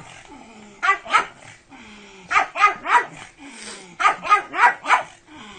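Pug barking repeatedly: about ten sharp barks in quick runs of two to four, with short pauses between the runs.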